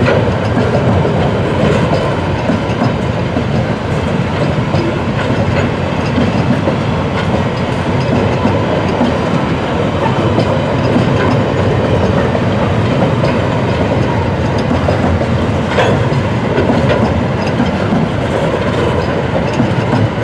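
Empty bauxite freight wagons rolling steadily past: a continuous loud rumble of steel wheels on rail with the clickety-clack of wheels crossing rail joints.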